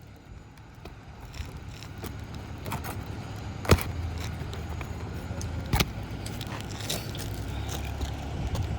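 Hammer striking a pry tool wedged under a shingle nail: two sharp metal strikes about two seconds apart, with lighter clinks between. Under them a vehicle engine runs with a low rumble that grows louder.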